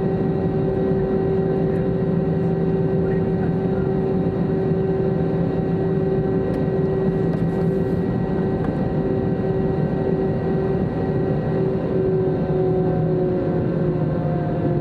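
Airbus A321-200 engine noise heard from inside the cabin before takeoff: a steady rumble with a droning hum of several tones, which shift slightly near the end.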